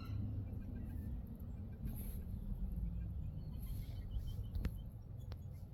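Baby chicks peeping faintly and sparsely over a steady low rumble, with a couple of sharp ticks near the end.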